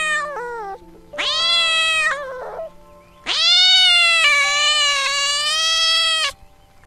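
Kitten meowing: a meow trailing off at the start, a second about a second in, then one long drawn-out meow of about three seconds, over faint background music.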